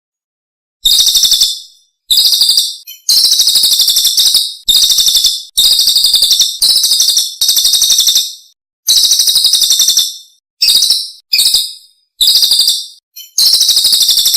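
Songbird's high, rapid trilled song in about a dozen short bursts of half a second to a second, with brief gaps between them, starting about a second in after dead silence. It is a masteran recording, songbird song used to tutor caged birds.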